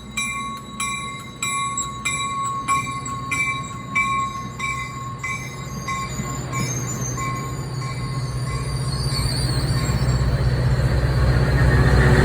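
A bell ringing about one and a half strikes a second, fading out about halfway, as an F40PH diesel locomotive's engine builds to a louder, rising rumble while the train accelerates away.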